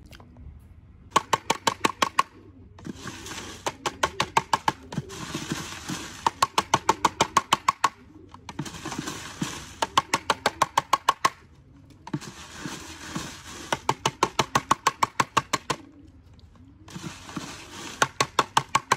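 Repeated bursts of rapid rattling, about eight sharp strokes a second with a metallic ring, each burst lasting one to three seconds with short pauses between.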